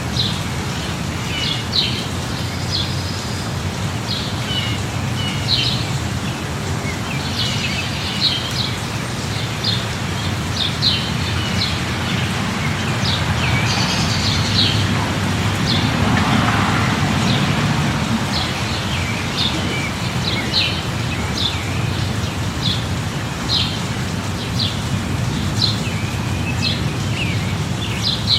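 Steady light rain with small birds chirping in short, repeated calls throughout. About halfway through, a broad swell of louder noise rises and fades over a few seconds.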